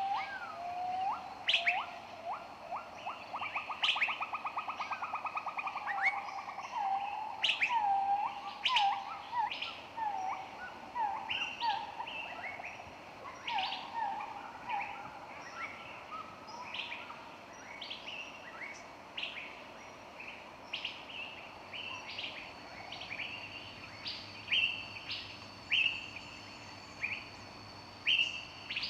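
Several songbirds singing and chirping together, with a fast rapid trill a few seconds in and repeated short calls, then thinner, higher whistles and chirps in the second half.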